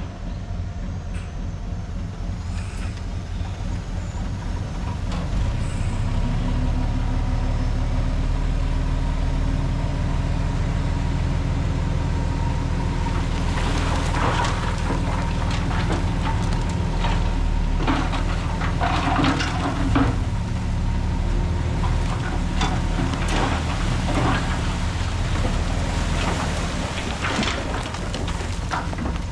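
Heavy diesel earthmoving machinery running under load, the engine picking up about six seconds in. From about halfway through, irregular clattering and scraping join it, typical of crushed stone being tipped or pushed.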